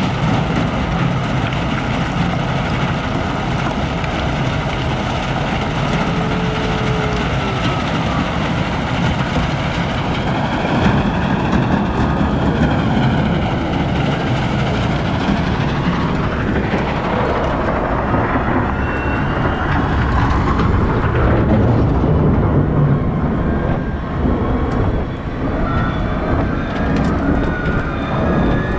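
Heavy diesel wheel loader working, its engine running steadily and loudly, with a whine that rises and falls midway through.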